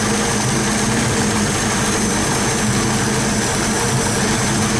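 Chevrolet Opala engine idling steadily with the air cleaner removed and the carburettor open. The engine has been failing to hold idle and stalling.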